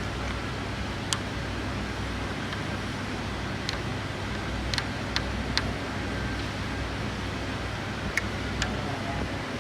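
Click-type torque wrench clicking off one bolt after another as bolts are tightened to 60 in the first torque stage: seven short sharp clicks a second or so apart, over a steady background hum.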